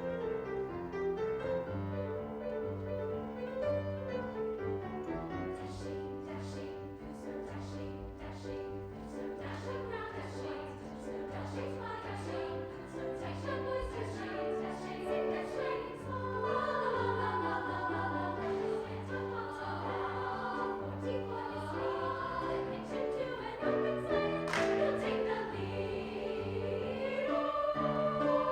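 A choir singing a held, sustained passage with instrumental accompaniment, including a repeated low bass pattern.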